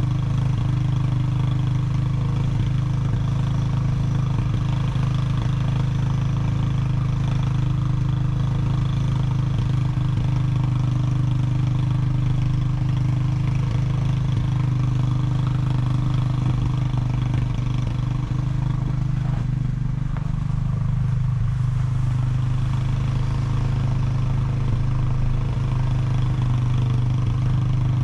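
ATV engine running steadily, with its pitch dropping slightly about twenty seconds in.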